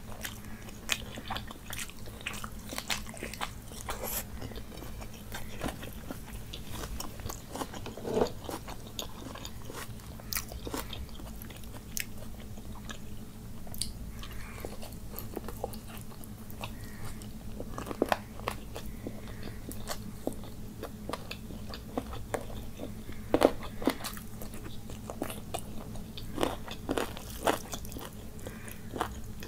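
A person chewing and biting food, eating rice and curry with the hand, close to the microphone. Irregular sharp mouth clicks come throughout, with louder ones about 8, 18 and 23 seconds in.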